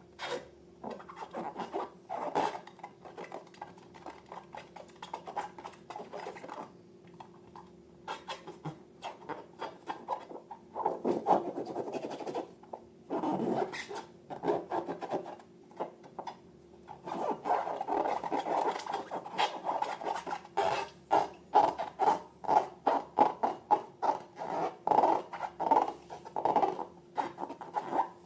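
Slime being mixed and squished, a run of short scraping, squelching strokes. They stop briefly twice, then come faster and louder, about three or four a second, in the second half.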